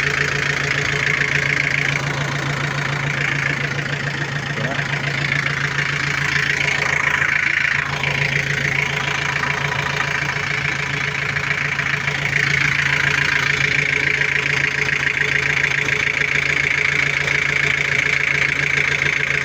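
Isuzu 4BA1 four-cylinder diesel engine running steadily at idle.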